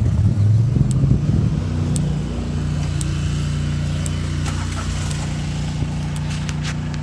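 A vehicle engine running with a low hum. Its pitch shifts during the first two seconds and then holds steady, with faint clicks about once a second.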